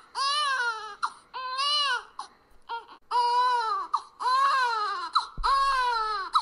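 A baby crying: about half a dozen wails, each rising and falling in pitch and lasting up to a second, with brief catches of breath between them.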